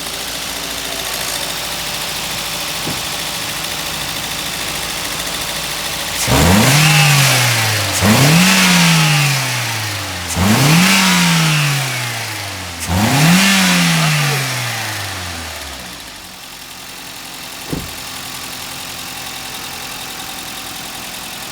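Toyota GLi's petrol engine idling, then blipped four times in quick succession, each rev rising sharply and falling back before it settles to idle again, while being checked for tappet noise. A single sharp click comes near the end.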